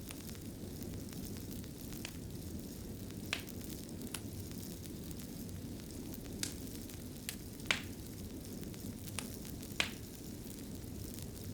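Wood fire in a fireplace burning steadily: a low, even rush of flame with sharp, irregular crackles and pops, two of them louder than the rest, near the middle and later on.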